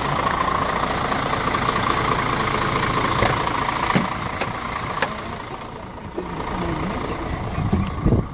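Mercedes Axor 1840 tractor unit's six-cylinder diesel engine idling steadily, with a few sharp clicks in the middle. The engine sound drops lower about four to five seconds in.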